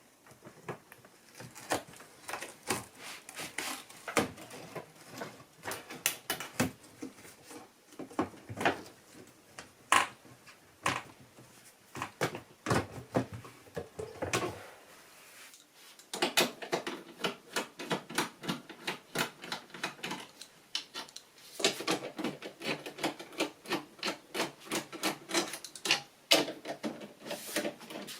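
Rapid, irregular clicking and tapping of tools and hands on the plastic and metal parts of an AEG Lavamat washing machine as its door seal is taken off and its front control panel is unclipped and removed. There is a short lull about halfway through, and then the clicking picks up again.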